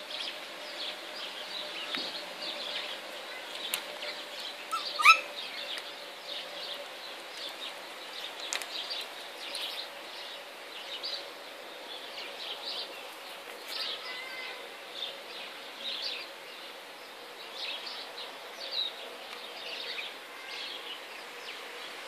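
Birds giving soft, scattered short chirps and twitters, with one louder, short rising call about five seconds in, over a faint steady hum.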